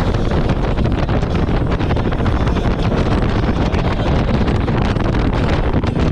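Wind buffeting the microphone at speed on a jet ski, with the watercraft's engine running under the rushing noise.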